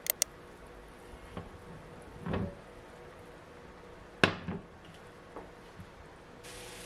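Scattered handling sounds of household objects in a small room: two quick clicks at the start, a few soft knocks and a dull thud, then a sharper knock about four seconds in. A steady hiss begins near the end.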